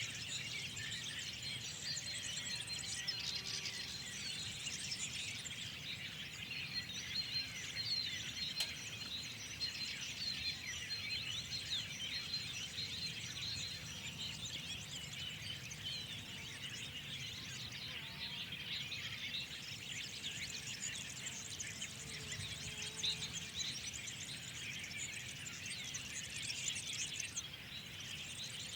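Dense spring chorus of many small birds chirping and tweeting at once, without a break, over a low steady rumble.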